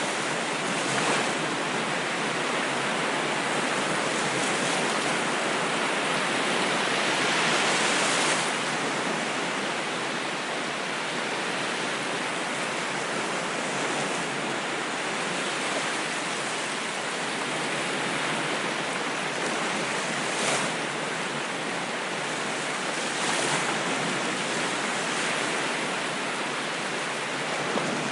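Ocean waves washing on a shore: a steady rush of surf that slowly swells and eases, loudest about eight seconds in.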